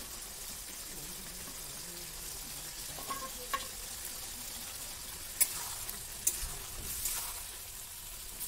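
Pork and potato pieces frying in a metal wok with a steady sizzle, stirred by a metal spatula. From about three seconds in, the utensils make several sharp clinks against the pans.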